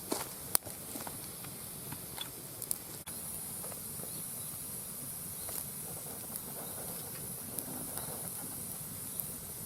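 Wood fire burning in a fire pit: a steady hiss with scattered sharp pops and crackles.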